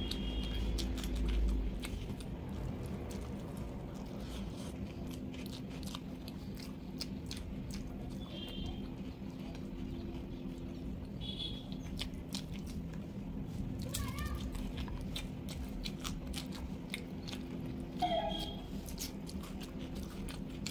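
Close-up eating sounds: wet chewing and mouth clicks while rice and vegetables are mixed and eaten by hand. Two short wavering cries break in, one about two-thirds of the way through and a louder one near the end.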